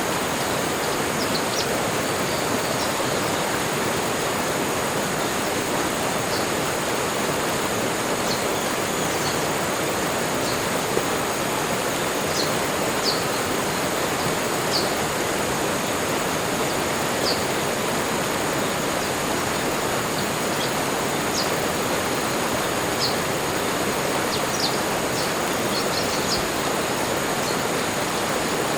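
Tropical forest ambience: a steady rushing background noise with short, high bird chirps scattered through it every second or two.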